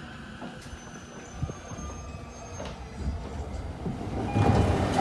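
E231-0 series electric commuter train heard from inside the car as it rolls in to stop at a platform: a steady low rumble with a faint thin high whine over it, then a louder rush of noise starting about four seconds in.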